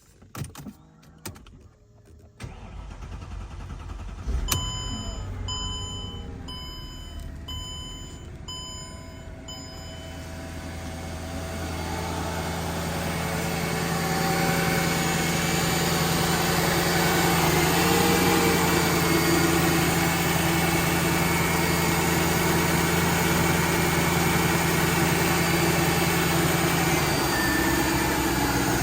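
Cold start of a car engine that has sat overnight: a few clicks, then the engine catches about four seconds in while a dashboard warning chime beeps about seven times. The engine then settles into a steady fast idle that grows louder over the next few seconds and eases slightly near the end.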